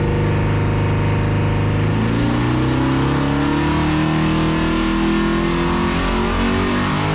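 Twin-turbo LS-swapped V8 pulling hard under boost on a hub dyno, heard from inside the car. It is loud and steady, with the pitch climbing gradually as the dyno ramps the engine up through the rev range.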